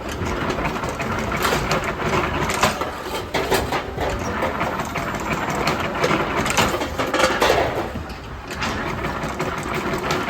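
Factory metalworking machinery running with a steady din, broken by frequent irregular metallic knocks and clanks.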